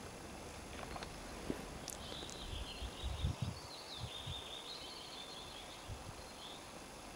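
A small songbird singing a long twittering, warbling phrase, with a few dull low thumps near the middle over a steady outdoor background hiss.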